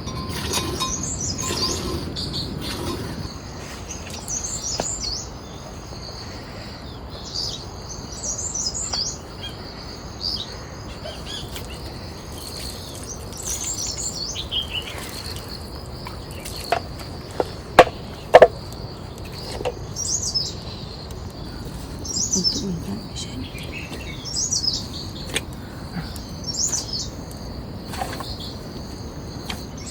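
Birds chirping in short, repeated high phrases every second or two, over a steady high-pitched drone. A few sharp knocks come a little past the middle and are the loudest sounds.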